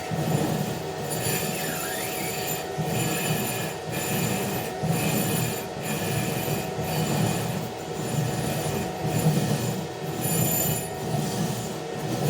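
Rhythmic scraping or rubbing strokes on the welded metal, about one a second, over a steady hum with a faint high whine.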